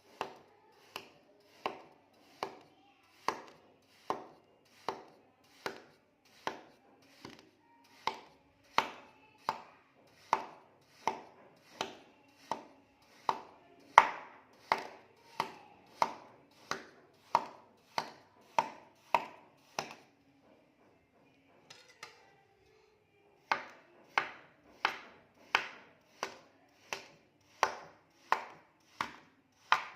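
Kinetic sand being sliced again and again, a short crisp cut about every three-quarters of a second. The cutting pauses for about three seconds two-thirds of the way through, then carries on at the same pace.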